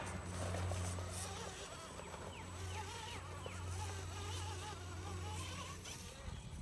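Brushed 21-turn electric motor and geared drivetrain of an RC rock crawler whining at low throttle, the pitch wavering up and down as the truck works under load.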